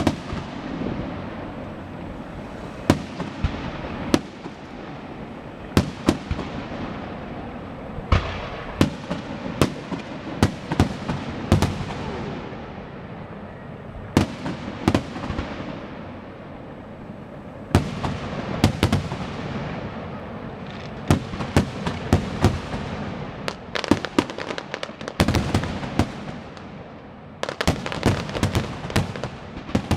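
Fireworks exploding: many sharp bangs at irregular intervals, often in quick clusters, over a steady crackle and rumble.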